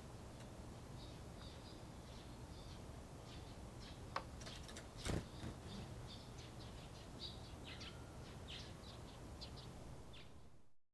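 Japanese bush warbler giving short, dry call notes over and over, the winter chat call rather than its full song. A click about four seconds in and a louder thump a second later.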